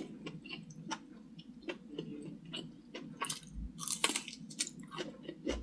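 A person chewing stir-fried enoki mushrooms close to the microphone: irregular wet clicks and smacks of the mouth, busiest about three to four seconds in.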